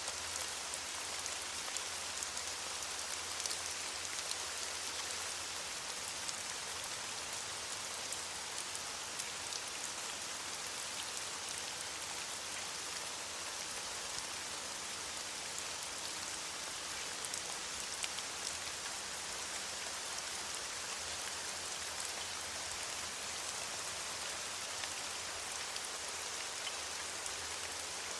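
Steady rain falling on leaves, a continuous hiss dense with the small ticks of individual drops.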